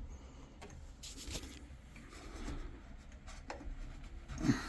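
Faint handling noise: light rubbing and a few soft clicks as the tankless water heater's isolation valves and hose fittings are worked by hand.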